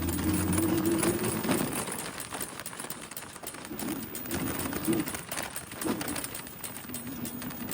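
Bicycle being ridden with a repetitive clicking noise from the bike, an annoying mechanical fault noise the rider calls irritating.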